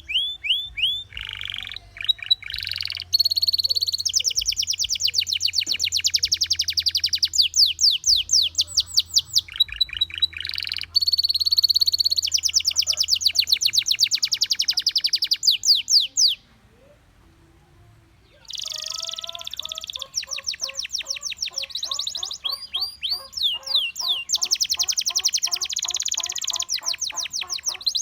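Gloster canary singing: fast trills of quickly repeated rising notes, one roll running into the next, with a pause of about two seconds just past the middle.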